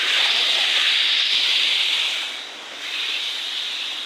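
Water rushing down a small waterfall in a stream gully: a steady hiss that drops briefly a little past halfway.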